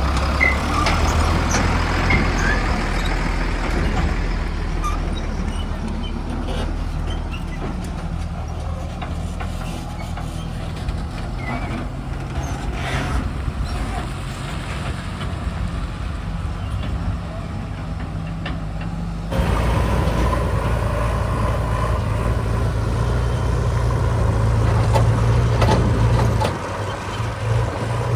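Heavy diesel engines of a backhoe loader and tipper trucks running steadily. About two-thirds of the way through, the sound changes abruptly to a louder, steadier engine note.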